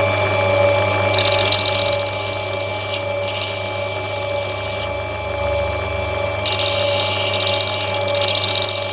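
Lapidary grinding wheel running with a steady hum while an opal is pressed against it to rub it back: two long spells of grinding hiss, starting about a second in and again past the middle.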